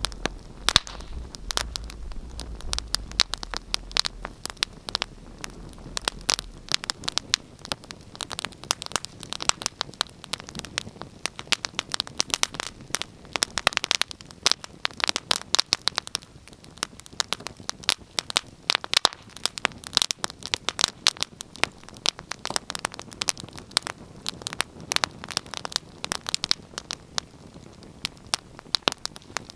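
Wood fire crackling: dense, irregular pops and snaps over a soft hiss.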